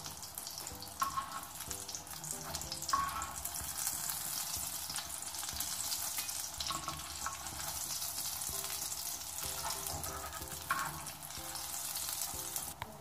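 Egg omelette sizzling in oil on a tawa, with scrapes and a few sharp taps of a metal spatula and knife against the tawa as it is folded over.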